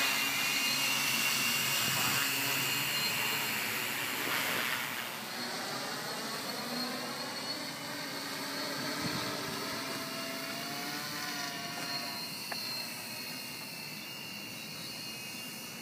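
Six-blade radio-controlled helicopter flying, its electric rotors giving a steady whine whose pitch wavers as it manoeuvres, slowly fading as it moves farther off.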